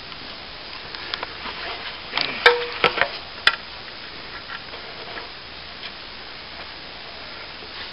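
A few sharp knocks and clicks of broken plasterboard being handled, bunched between about two and three and a half seconds in, over a steady hiss.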